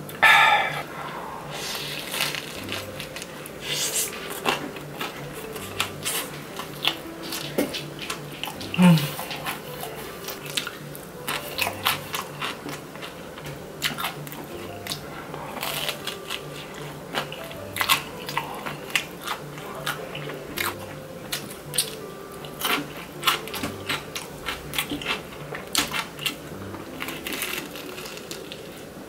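Close-miked crunching and chewing of crispy-crusted homemade Chicago deep-dish pizza, with irregular crackly bites and chews throughout. It opens with a short voiced exhale after a drink of water.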